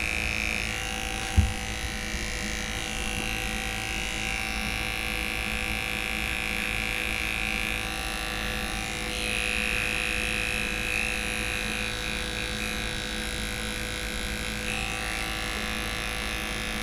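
Electric dog grooming clippers running steadily as they trim a puppy's coat, their hum brightening and easing as the blade works through the fur, with one sharp click about a second and a half in.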